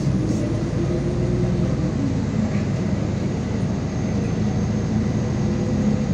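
MAZ 216.066 city bus under way: its engine and drivetrain running with a steady low drone and a whine that rises slightly, then drops about two seconds in.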